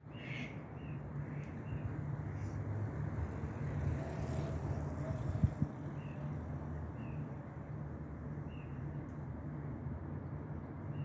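Outdoor ambience: a steady low rumble, with short high chirps repeating every half second to a second. A single sharp knock comes about halfway through.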